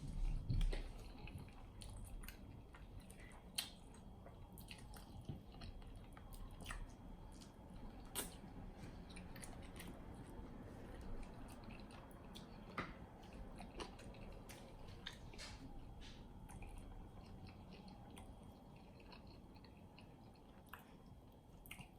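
A person chewing and eating chicken wings coated in sweet garlic sauce, with irregular small mouth clicks throughout.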